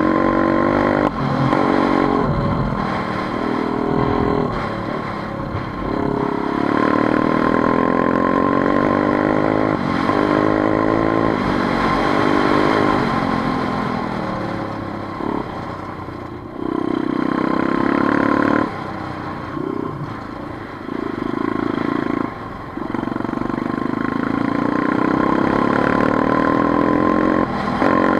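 Motorcycle engine running under way, its note rising with throttle and falling again over and over, with short dips around a dozen times where the throttle is closed or a gear is changed.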